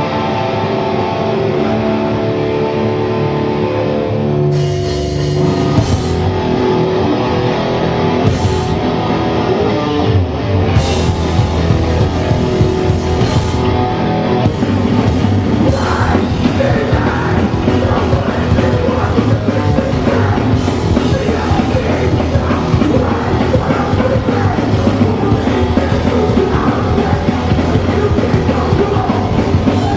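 Hardcore punk band playing live: sustained electric guitar chords ring out at first, then the full band with drums comes in and plays fast and dense from about ten seconds in.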